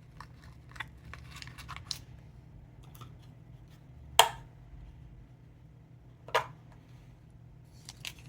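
Small gift packaging being handled and opened by hand: light rustles and small clicks, with two sharp snaps about four and six seconds in.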